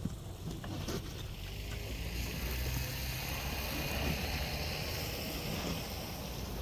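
A vehicle passing on a snowy street: its tyre hiss swells and fades over a few seconds, with a low engine hum beneath, over a steady low wind rumble.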